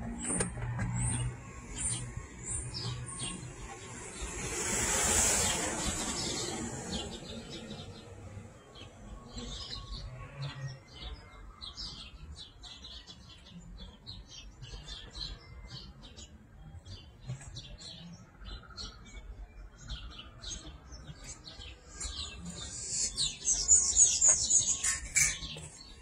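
Small birds chirping in short, quick, high calls, thickest and loudest near the end. A whoosh of noise swells and fades about five seconds in.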